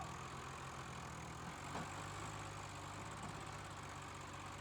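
Tractor engine running steadily, its note changing slightly about one and a half seconds in.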